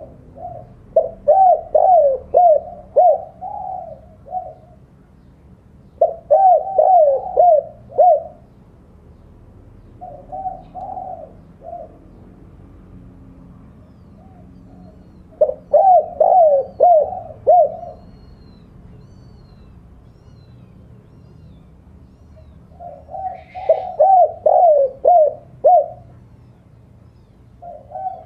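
Spotted dove (tekukur) cooing a territorial challenge call that draws rival doves. It sings repeated phrases of four to six quick, dipping coos, with a few seconds of pause between bouts.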